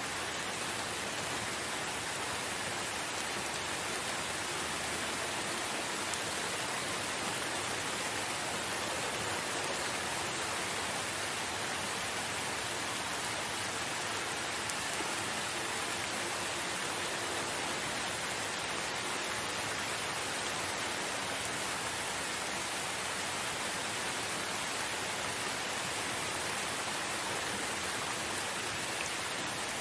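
Steady rain falling, a constant even hiss of drops with no breaks.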